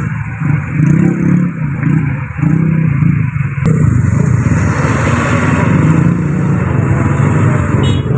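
Motor vehicle engine running steadily under load, a low drone with road and wind rush over it.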